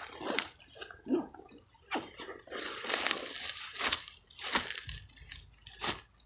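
Irregular rustling and crunching of a plastic bag and freshly pulled wild garlic plants being handled.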